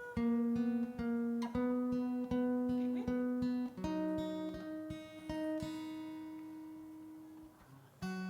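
Acoustic guitar strumming chords in an even rhythm, changing chord twice. A final chord is left to ring and fade, then the strumming starts again near the end.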